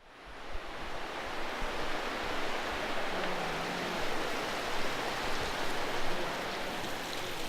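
Steady rushing of a flooded river's water, fading in at the start.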